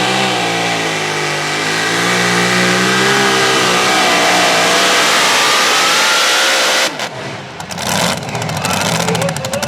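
Super modified two-wheel-drive pulling truck's engine running at high revs down the track under load, its pitch wavering and then climbing steadily. About seven seconds in the engine note drops away suddenly, leaving a lower, rougher rumble.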